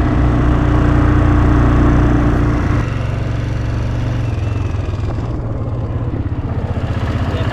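Kawasaki 400 4x4 quad bike's engine running while riding, under steady throttle, then easing off about three seconds in.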